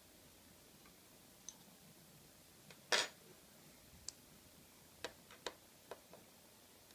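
Light clicks and taps of small repair tools against an iPhone 5's parts, with one sharper click about three seconds in and a few quick light clicks near the end.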